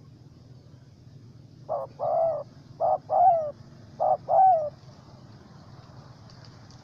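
Spotted dove (tekukur) cooing: three phrases in a row, each a short coo followed by a longer, falling one.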